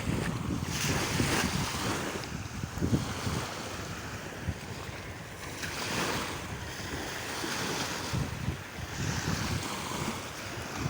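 Sea waves washing in, swelling in surges every few seconds, with wind buffeting the microphone.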